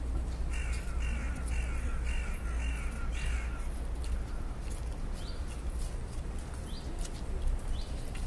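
A bird giving six harsh calls in quick succession, about two a second, during the first three seconds, over a steady low rumble.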